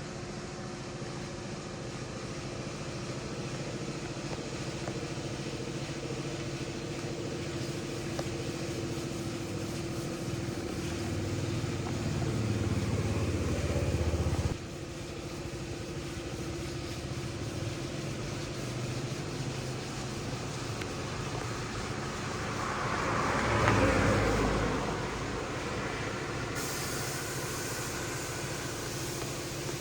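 A steady mechanical drone with a constant low hum, swelling briefly about two-thirds of the way in. It cuts abruptly to a different level around the middle and again a few seconds before the end.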